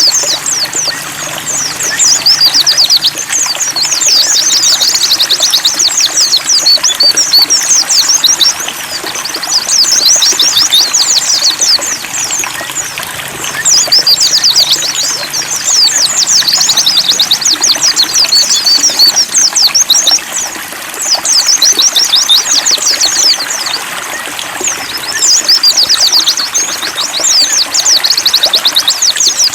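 A group of white-eyes (pleci) singing in bouts of fast, dense, high twittering chirps, each bout a few seconds long with short breaks, over a light trickle of water.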